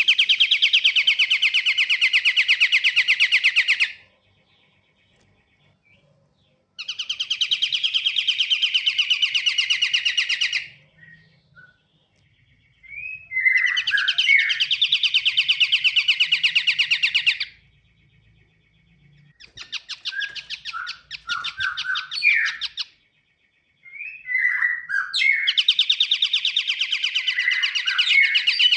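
Pied triller (kapasan kemiri) singing: five long, loud trills of very rapid repeated notes, each about four seconds, separated by short pauses. Short chirps are mixed into the later trills.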